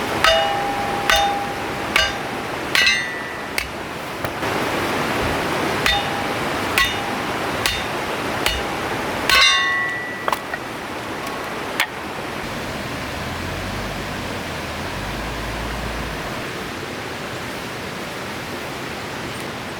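About a dozen sharp metal-on-metal strikes at an even pace, a little under one a second, each with a short ringing tone, over the steady rush of a river. The strikes stop about twelve seconds in, leaving the river alone.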